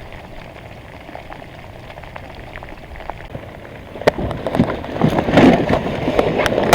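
Steady rain falling, an even hiss. About four seconds in comes a sharp knock, then louder irregular knocks and clatter over the rain.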